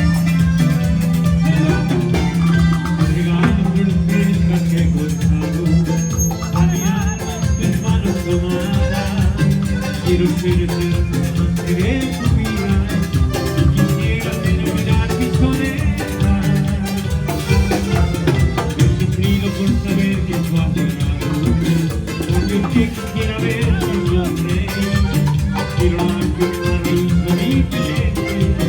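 A band playing Latin American dance music with a steady percussion beat.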